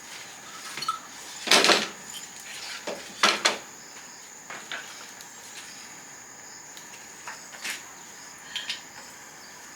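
Kitchen clatter of pots, dishes and utensils: scattered knocks and clinks, the loudest two about a second and a half in and just over three seconds in. A steady high insect chirring runs underneath.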